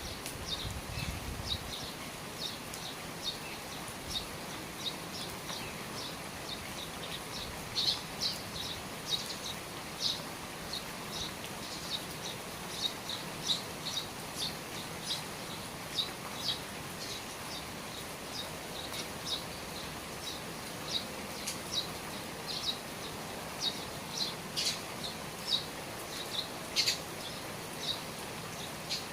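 A small bird chirping over and over, about two short high chirps a second, over the steady hiss of falling rain.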